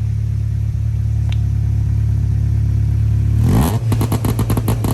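Honda Civic's H2B-swapped four-cylinder VTEC engine revved through a new Vibrant exhaust: it holds a steady, slowly rising drone, then about three and a half seconds in breaks into a rapid stutter of about ten pulses a second.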